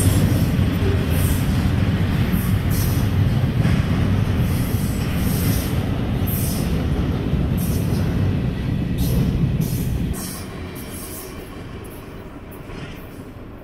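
Double-stack intermodal freight cars rolling past close by: a steady low rumble of wheels on rail, with brief high-pitched wheel screeches now and then. About ten seconds in it drops to a fainter rumble that fades as the end of a train moves away.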